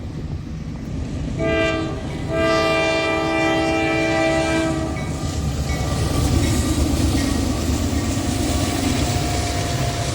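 Diesel locomotive's multi-chime air horn sounding a short blast and then a longer one of about three seconds, followed by the heavy rumble of the locomotives and cars rolling past with wheels clattering on the rails.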